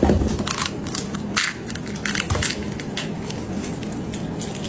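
A run of irregular crisp crunching clicks over a faint low steady hum.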